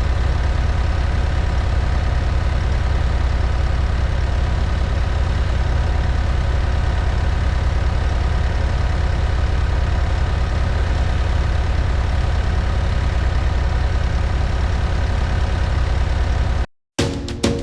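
A heavy engine idling steadily and evenly, with a deep low hum. It cuts off abruptly near the end, and drum-led music starts right after.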